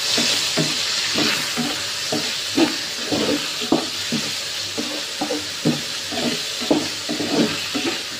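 Snails in their shells and chopped garlic sizzling in hot oil in a frying pan as a spatula stirs them. The spatula and shells knock and scrape against the pan a few times a second. The sizzle is strongest in the first second or so.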